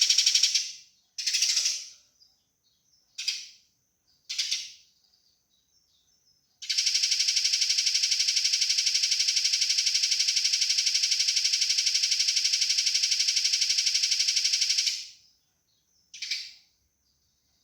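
Eurasian tree sparrow fighting call: a few separate sharp chirps, then a long, very fast, dense chattering rattle of about eight seconds, then one more chirp near the end.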